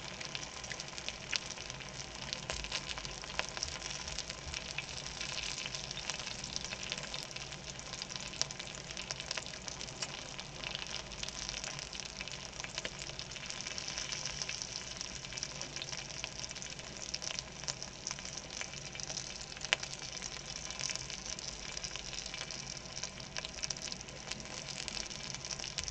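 Pork belly (samgyeopsal) sizzling in its own fat over the heat: a steady crackling hiss of fine pops, with an occasional sharper pop.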